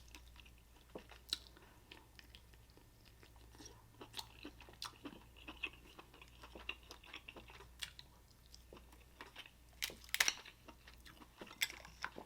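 Close-miked eating sounds from a seafood boil: chewing and mouth sounds with scattered small sharp clicks and cracks, a louder cluster about ten seconds in.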